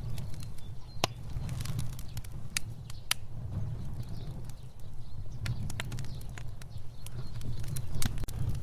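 Fire burning with a steady low rumble of flames and scattered sharp crackles and pops, a few louder ones standing out.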